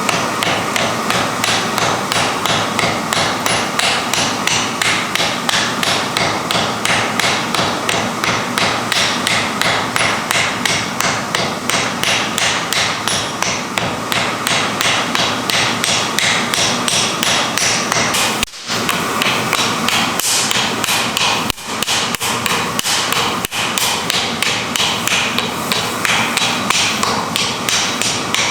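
Rapid, steady hammer blows on metal while forging iron, about three strikes a second, with a short break about two-thirds of the way through.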